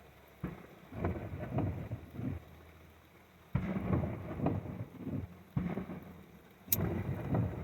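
Fireworks bursting in a run of booms with crackling tails, a short lull in the middle, and a sharp crack near the end.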